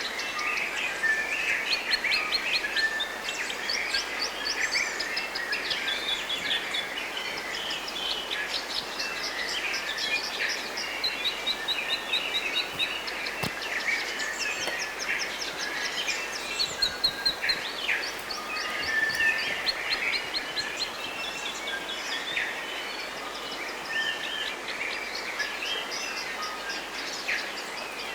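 Forest birdsong: several birds singing over one another, with fast repeated trills and chirps, over a faint steady background hiss.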